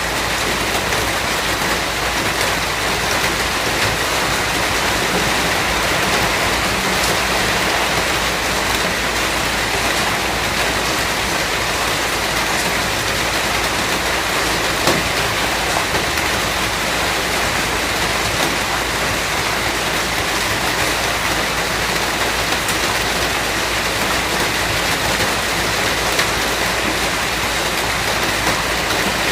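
Steady heavy rain falling, a dense even hiss with a few scattered drop ticks.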